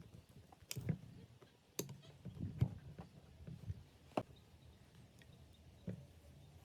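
Irregular light knocks and sharp clicks, a few at a time, as of tools or parts being handled; the sharpest click comes about four seconds in.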